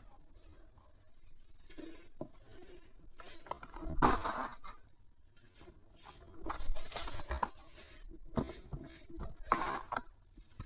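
Dry material being crushed and crumbling, in a string of separate crunching bursts a second or two apart, the loudest about four seconds in.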